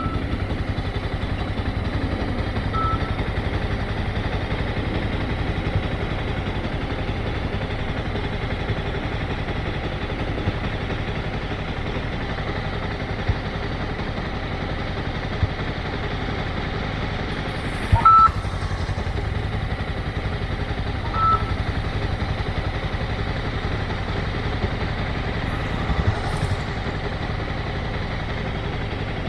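Motorcycle engine running steadily, with a few short high beeps and a sharp knock about eighteen seconds in.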